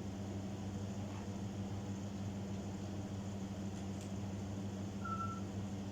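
Steady low electrical hum, with one short high whistle about five seconds in.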